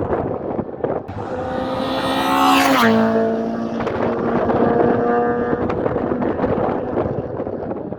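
A Honda race car's engine at speed passing close by. Its note rises and grows loud as the car approaches, then drops sharply in pitch as it passes about three seconds in. The engine carries on at a steady note as it moves away.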